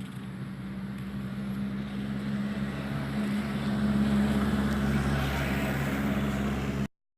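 Vehicle engine running with a steady low hum, growing louder over about four seconds and then holding, before cutting off suddenly shortly before the end.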